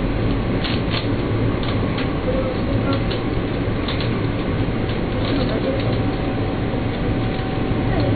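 Electric commuter train running along the track, heard from inside: a steady rumble with scattered clicks and a faint steady whine.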